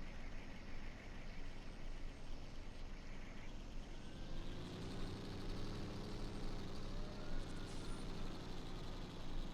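Truck engine running: from about four seconds in it grows louder and its pitch rises and falls slightly, as a truck drives by.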